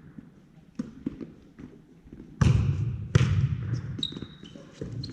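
Volleyball being set and hit: small taps early on, then two loud slaps of the ball just past the middle, each followed by a low boom. A short high squeak comes near the end.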